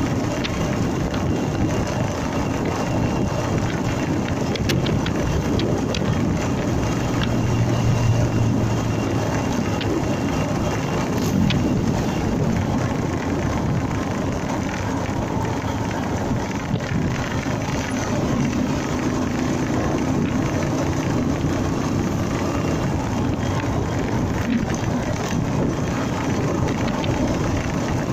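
Honda MegaPro motorcycle riding along, its single-cylinder engine running under steady wind and road noise.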